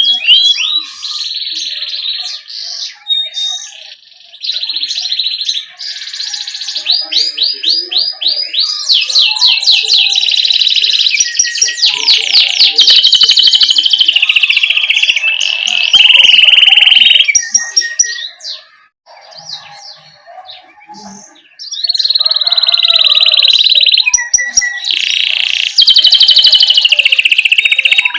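Domestic canary singing loudly: a long, continuous song of rapid rolling trills and repeated chirping phrases, with a brief quieter break about two-thirds through.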